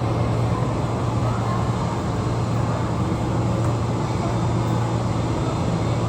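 A steady engine drone: a constant low hum under an even rushing noise.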